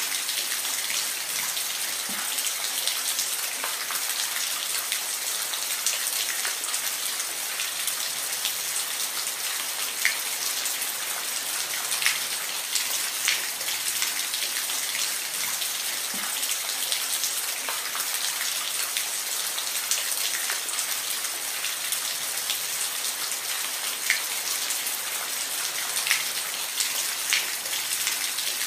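Steady rain falling, an even hiss with scattered drops ticking on a hard surface, now and then a louder drip.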